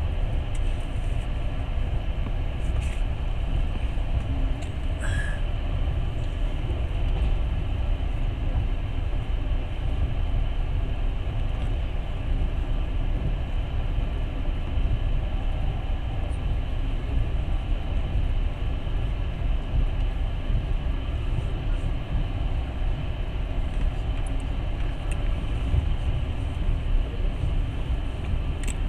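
Steady low rumble of a moving passenger train, its wheels running on the track, heard from inside the carriage.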